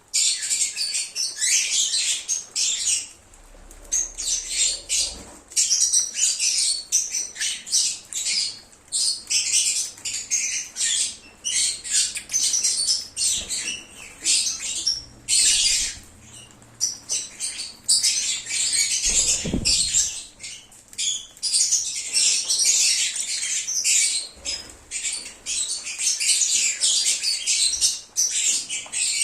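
Lovebirds chattering: rapid, high-pitched chirps and squeaky twitters in dense bursts, broken by a couple of short lulls.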